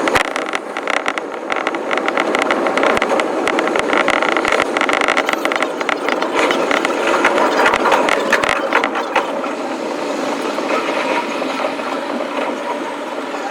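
Electric commuter train running, with rapid clattering clicks from the wheels and track that thin out about nine seconds in, leaving a smoother running noise.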